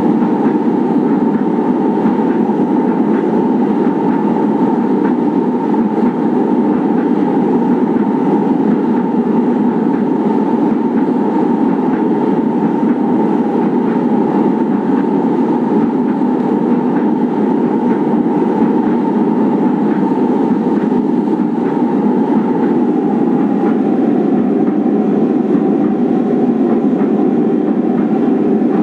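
Kinki Sharyo / Nippon Sharyo 1200-series light rail train running steadily, with a continuous rumble of wheels on rail, faint clicks and a held whine that drops slightly in pitch about three-quarters of the way through.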